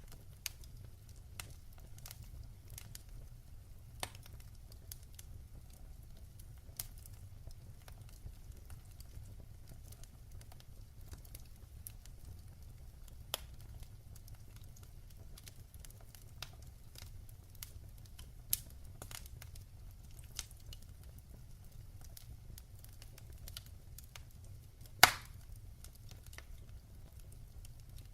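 Wood fire burning in a fireplace with a low steady rumble and scattered sharp crackles and pops, one loud pop near the end.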